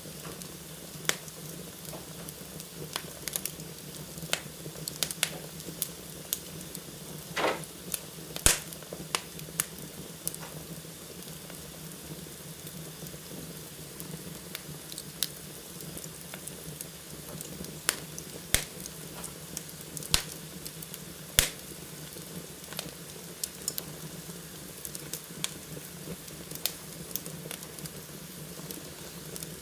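Wood fire burning in a fireplace: a steady hiss with frequent, irregular sharp crackles and pops, the loudest about a third of the way in and again around two-thirds through, plus a brief hiss just before the first loud pop.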